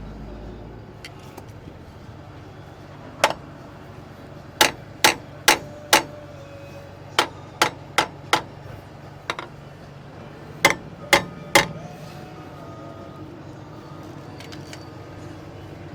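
Hammer striking metal, about a dozen sharp blows in short groups of three or four, a couple a second, from about three seconds in until about twelve seconds in.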